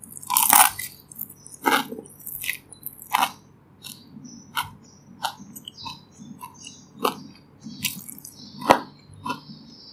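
Close-miked eating: a person biting into and chewing crispy pan-fried dumplings, with sharp crunches about every second. The loudest crunches come at the first bite and at another bite near the end.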